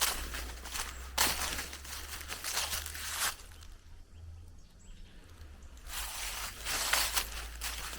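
Footsteps crunching along a forest path, with a quieter spell in the middle, over a steady low rumble.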